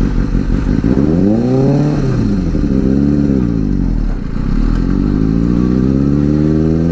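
Motorcycle engine revving up and dropping back twice, then pulling away with a long, steady rise in pitch.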